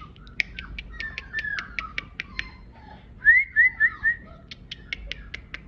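Young puppy whimpering in thin high whines, with four short rising squeaks in quick succession a little past halfway, over a steady run of sharp clicks at about six a second.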